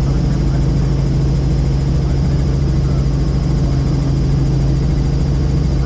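Helicopter in flight heard from inside the cabin: a steady, loud drone of rotor and engine with a strong low hum.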